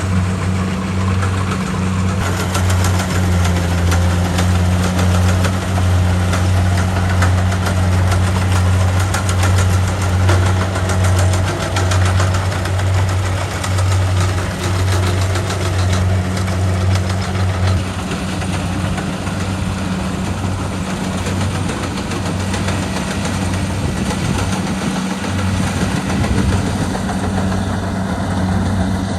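Kubota DC70 Pro combine harvester running steadily: a loud diesel engine hum with a dense mechanical rattle. The deep hum eases slightly about two-thirds of the way through.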